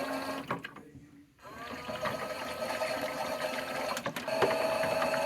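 Small electric drum motor of a Theo Klein Miele toy washing machine whining. It cuts out about a second in, starts up again with a rising whine, and after a click near the end runs on louder.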